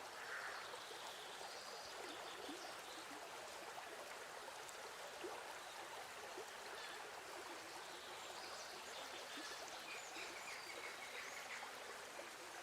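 Faint, steady hiss of background noise, with no distinct sound event.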